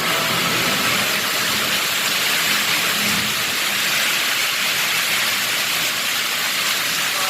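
Heavy rain pouring down in strong wind: a steady, even hiss.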